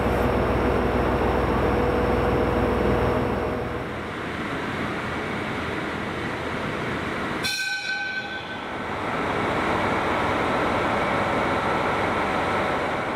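Trains at a station: a train's low, steady rumble for the first few seconds, then a sudden break a little past halfway, a brief high tone, and the steady noise of a train running.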